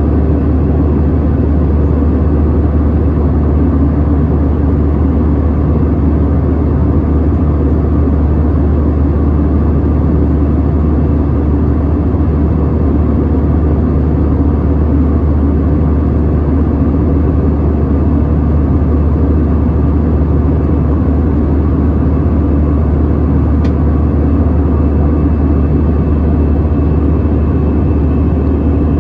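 Steady engine and airflow noise heard inside the cabin of an Airbus A321, a deep even drone with a strong low hum. A faint thin high tone sets in near the end.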